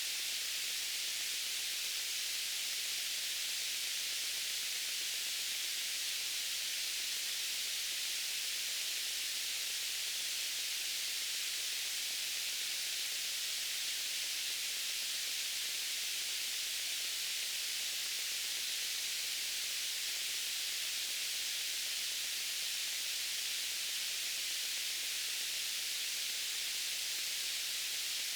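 Steady white noise: an even, high hiss with little low end, unchanging throughout.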